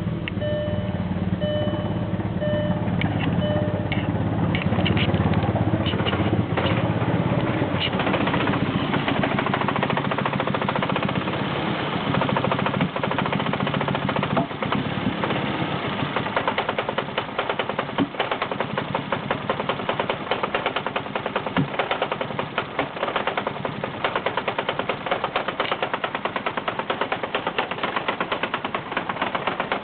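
A VW 1.8T AWP turbocharged four-cylinder, cold, running very roughly with a rapid, uneven clatter and a loudness that stumbles and dips, the way it does just before stalling. The owner traced the fault to a failing MAF sensor that makes the engine run too rich. A short electronic chime repeats during the first few seconds.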